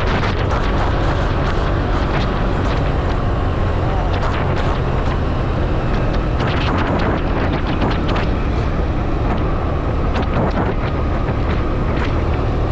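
Honda scooter engine running steadily at speed, with wind rushing over the microphone.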